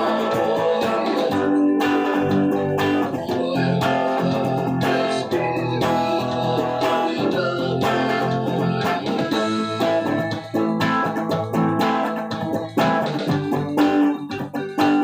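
Guitar playing an instrumental melody, plucked notes over chords. From about ten seconds in the notes come more separated, with short gaps between them.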